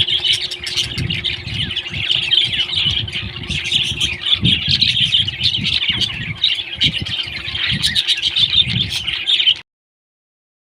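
Parrot chatter: continuous high chirps and squawks, with low thumps underneath, cutting off abruptly near the end.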